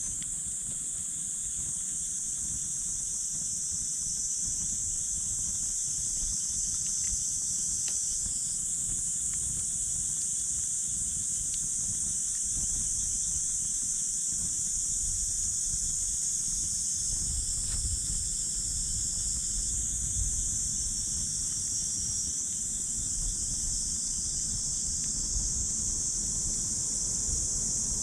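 Steady high-pitched chorus of insects over a low rumble of wind, with a few faint crackles from a wood campfire.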